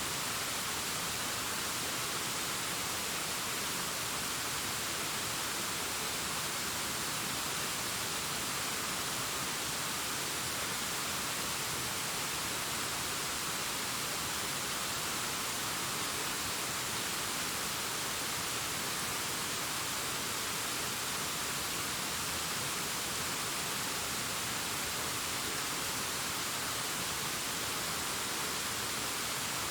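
Distant waterfall cascading down a rockface: a steady, even rush of falling water with a hissy, treble-heavy tone.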